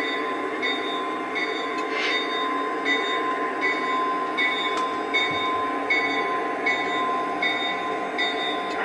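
Two model Union Pacific locomotives running along the track: a steady mechanical running sound with a constant whine and a regular pattern that repeats about every three-quarters of a second.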